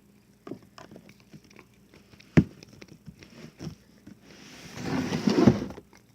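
Slime being mixed by hand in a bowl: small sticky clicks and squelches, a sharp knock about two seconds in, and a louder stretch of squishing near the end.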